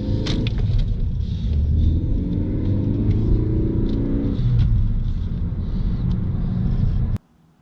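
A car engine and road rumble while driving, the engine note rising twice as the car accelerates. It cuts off suddenly near the end.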